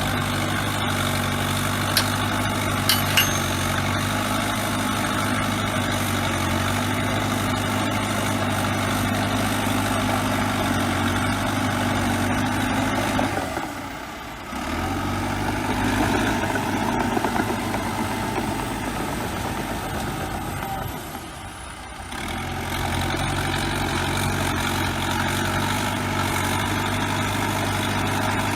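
Bulldozer diesel engine running steadily, its level dipping briefly twice, with a few sharp clinks about two and three seconds in.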